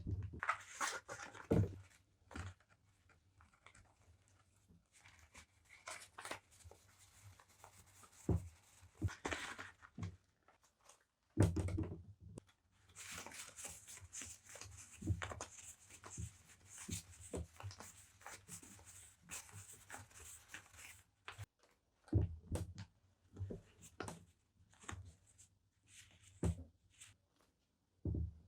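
Close-miked handling of paper stationery and packaging: scattered soft taps and knocks, with a long stretch of paper or plastic rustling in the middle.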